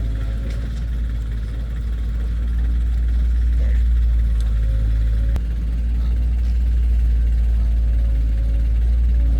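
Heavy diesel engine of earthmoving equipment running steadily with a deep rumble, swelling slightly a couple of seconds in, with one sharp click or knock about five seconds in.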